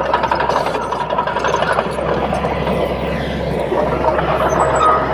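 Crawler bulldozer's diesel engine running steadily.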